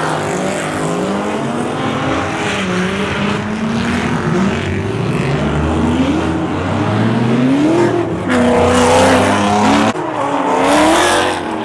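Cars drifting: engines revving, their pitch climbing and falling repeatedly, over a hiss of screeching tyres. It grows loudest from about eight to eleven seconds in.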